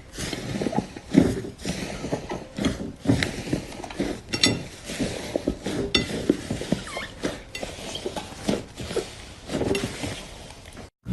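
Crunchy slime being squeezed and worked by hand, giving a fast, irregular stream of crackles, clicks and small pops. It stops abruptly near the end.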